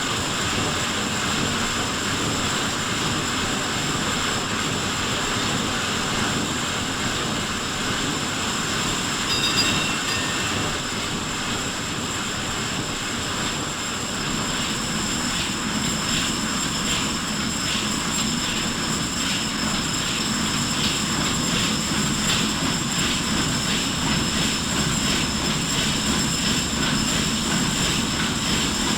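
A ship's engine running steadily under a wash of sea noise, with faint regular pulsing growing through the second half. About ten seconds in there is a brief high-pitched call.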